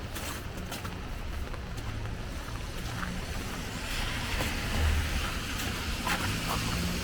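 A vehicle passing on a wet, slushy street, its tyres hissing and swelling in level from about four seconds in, with footsteps on wet pavement underneath.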